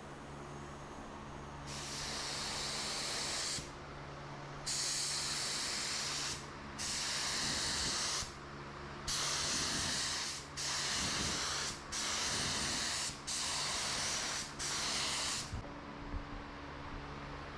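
Primer being sprayed onto sheet-metal panels in about eight short hissing passes, each one to two seconds long, over a steady low hum.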